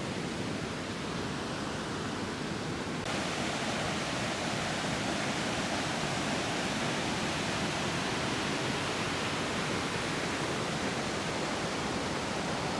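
A river's water rushing steadily, an even hiss of flowing water with no break, getting slightly louder and brighter about three seconds in.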